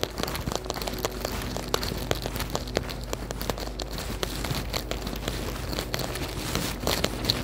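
Rain patter and footsteps on wet, slushy pavement: a dense, irregular crackling with no steady rhythm. A faint steady low hum sits underneath.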